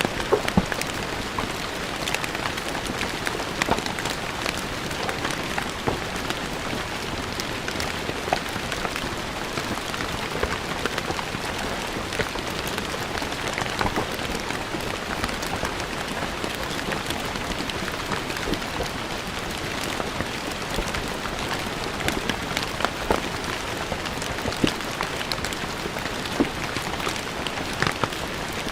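Steady rain falling on stone paving, an even hiss dotted with sharp ticks of individual drops striking the stone.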